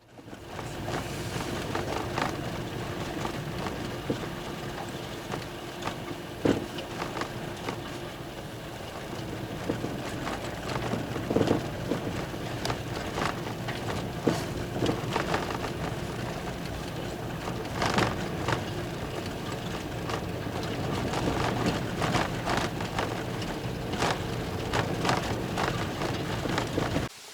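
Steady rushing outdoor noise, like wind on the microphone, with irregular sharp crackles and pops scattered through it. It cuts off suddenly near the end.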